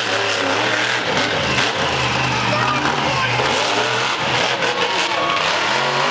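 Monster truck engine revving hard, its pitch rising and falling as the throttle is worked.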